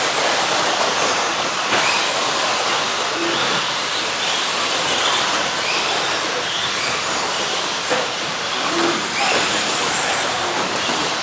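Electric 1/10-scale stadium trucks with 13.5-turn brushless motors racing: a steady mix of high-pitched motor and drivetrain whine and tyre noise on the dirt track, with brief whines rising and fading as trucks pass.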